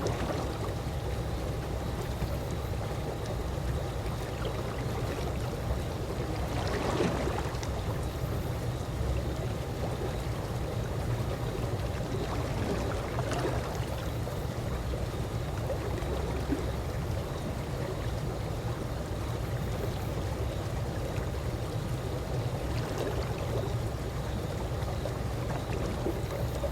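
Calm swimming-pool water lapping and gurgling over a steady low rumble, with a few brief splashier swells, the clearest about 7 and 13 seconds in.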